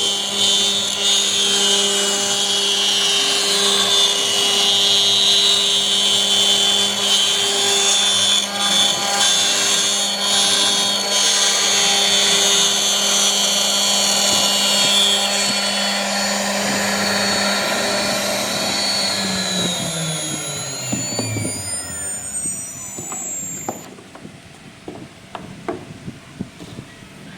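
CNC router spindle running while carving wood, a steady whine over cutting noise; about three quarters of the way in it is switched off and winds down, its whine falling smoothly in pitch until it stops, leaving a few faint clicks.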